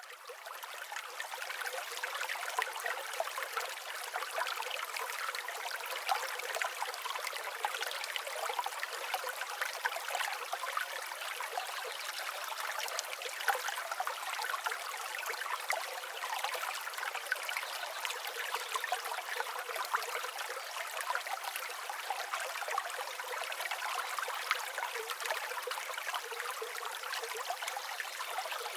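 Running stream water trickling and babbling steadily, fading in over the first couple of seconds; thin, with no low rumble.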